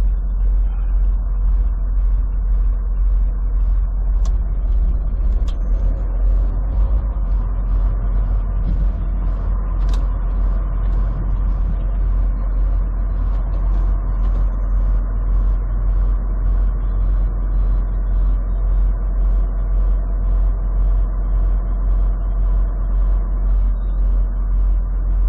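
Steady road and engine rumble heard from inside a vehicle's cab cruising on the highway, with a faint, even ticking about three times every two seconds.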